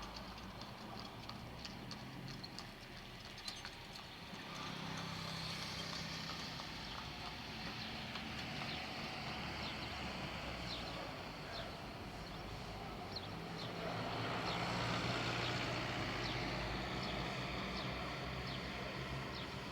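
Street ambience: steady traffic noise, with motor vehicles passing and swelling louder twice, about five seconds in and again near the middle to the end. Short high-pitched chirps sound often over it.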